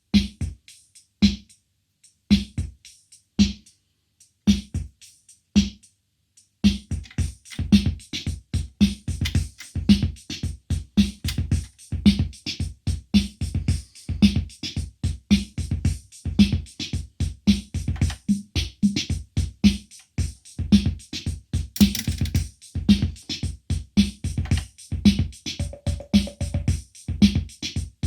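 Roland CR-68 CompuRhythm analogue drum machine playing its rhythm voices. First a single drum sound is struck about once a second; about six seconds in, a fuller repeating pattern starts, with kick drum, drum hits and fast hi-hat ticks, and a brief cymbal-like hiss about two-thirds of the way through.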